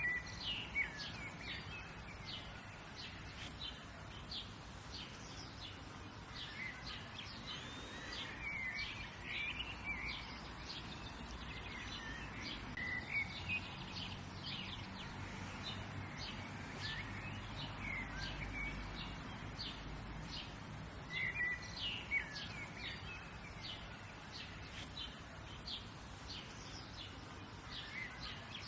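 Several wild birds chirping and trilling, with short calls overlapping continuously, over a low steady rumble of background noise.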